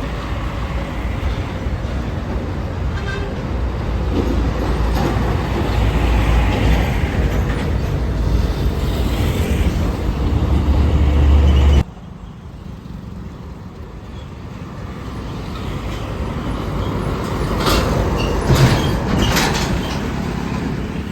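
Heavy vehicle passing close by on a road, its engine a loud low rumble that builds and then cuts off abruptly about twelve seconds in. Road traffic noise then swells again, with a few sharp clicks near the end.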